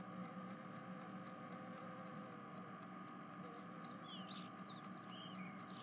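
Faint steady background hum with a handful of short, high chirps in the second half.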